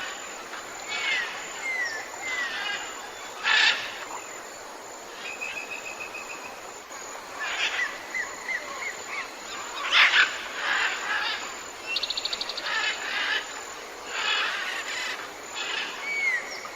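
Chorus of tropical forest birds calling over a steady hiss. It mixes short slurred whistles, a fast even trill about five seconds in, a rapid rattling series about twelve seconds in, and loud chattering calls.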